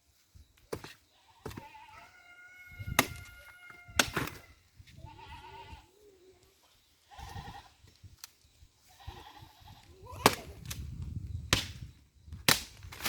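Several sharp cracks or knocks, the loudest about ten seconds in, with short pitched, wavering farm-animal calls between them, bleat-like.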